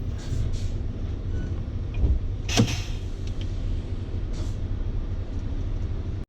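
Steady low rumble of a Scania S520 truck's V8 engine and road noise heard inside the cab, with a single sharp knock about two and a half seconds in.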